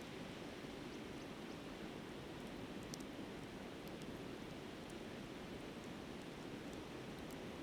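Flowing river giving a steady, even rush of water, with a few faint crackles from a campfire burning down to coals.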